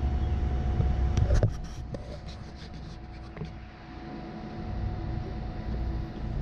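Low engine rumble with a faint steady hum, easing off past the middle and building again near the end. A cluster of sharp clicks and knocks comes about a second in.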